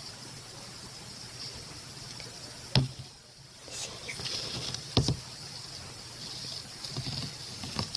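A boxed toy doll in its packaging being handled and turned: two sharp knocks about two seconds apart, with soft scuffing between them and near the end, over a steady faint hiss.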